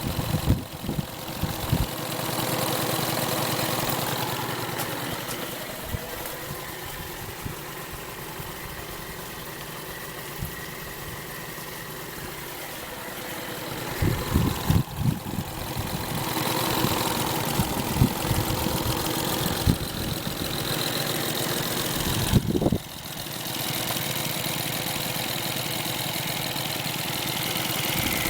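Johnson 40 fuel-injected four-stroke outboard motor running steadily. It gets louder for a stretch in the middle, with a few short low thumps along the way.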